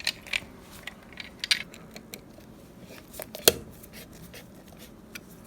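Scattered small clicks and taps from a three-gang wall light switch and its wires being handled and pushed back into the wall box, with one sharper knock about three and a half seconds in.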